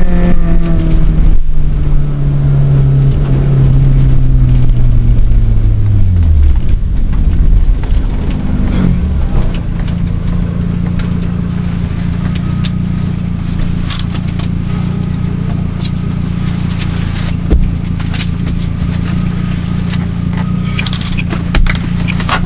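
Suzuki Swift GTi's 1.3-litre twin-cam four-cylinder heard from inside the cabin, its revs falling steadily over the first several seconds as the car slows down, then settling into steady low running. Scattered clicks and a couple of knocks come later.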